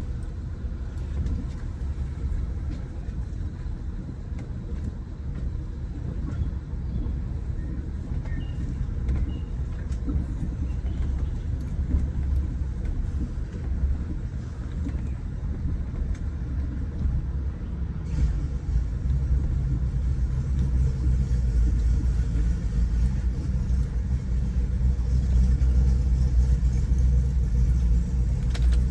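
Car interior while driving: a steady low engine and road rumble that grows heavier and louder about two-thirds of the way through.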